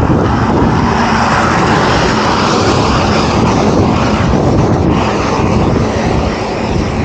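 Steady rushing wind noise on the microphone of a camera riding along on a moving bicycle in light rain, with a low rumble beneath.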